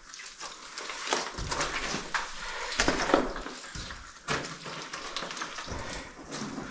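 Footsteps and scuffing on rock and mud with clinks of caving gear, a dull thud about every second and a half among scattered scrapes and clicks.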